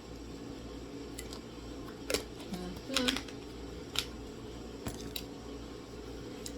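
A few sharp clicks and knocks of kitchen items being handled during food preparation, spaced about a second apart, over a steady low hum.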